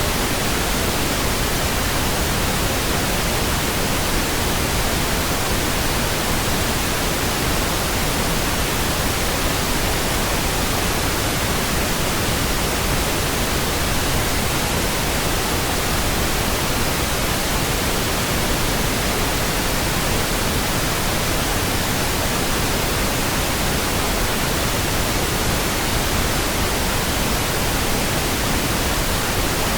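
Steady pink noise: an even, unchanging hiss spread across all pitches, with no tones or sudden sounds.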